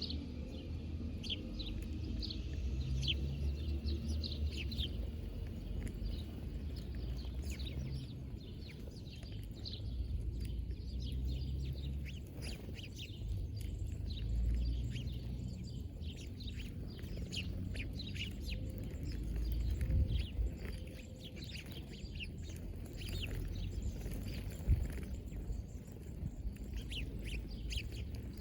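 Small birds chirping, many short high chirps in quick succession, over a steady low rumble.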